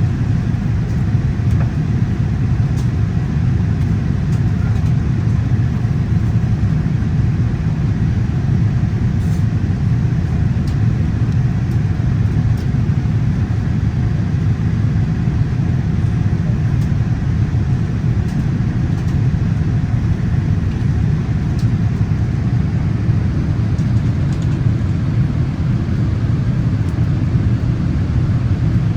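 Steady cabin noise of a Boeing 787-8 airliner: an even, unbroken low rumble with a fainter hiss of air above it.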